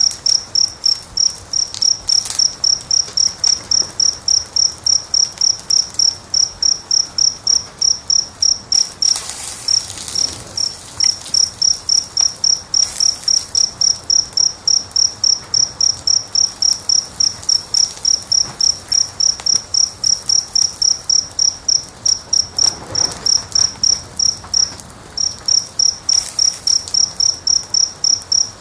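Cricket chirping steadily, a high-pitched pulse repeating several times a second with a couple of brief pauses. Faint crackles of a wood fire lie underneath.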